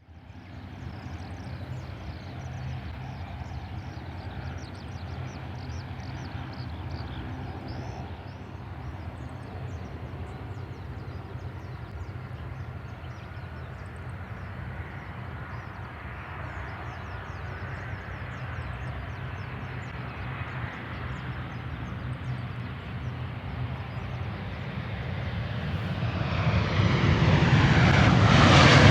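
Boeing 737-800 jet with CFM56-7B turbofans on approach and landing: a steady low engine rumble that builds slowly, then grows much louder over the last few seconds.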